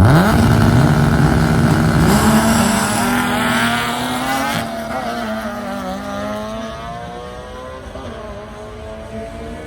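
The 1972 Valiant Pacer's 265 Hemi straight-six revving hard as the car launches down the drag strip. Its pitch climbs sharply, holds, and climbs again about two seconds in at a gear change, then the engine note fades steadily as the car pulls away.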